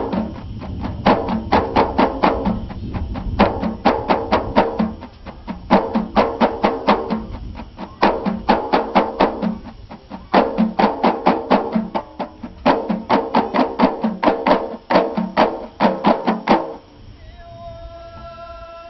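Ahidous music: bendir frame drums beaten in fast phrases of about four strokes a second, broken by short pauses, with voices beneath. The drumming stops about 17 seconds in and a held, chanted song begins near the end.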